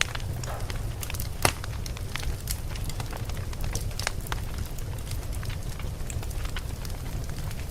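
Wood campfire crackling, with frequent small sharp pops over a steady low rumble, and one louder pop about a second and a half in.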